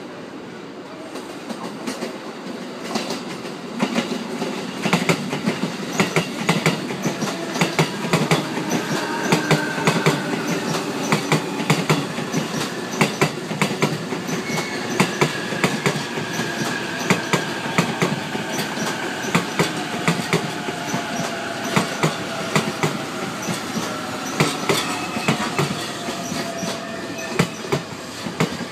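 A long electric commuter train running past at low speed. Its wheels clack over rail joints and points with a dense, uneven rhythm, getting louder about four seconds in as the cars reach the track alongside. A faint whine falls slowly in pitch as the train slows.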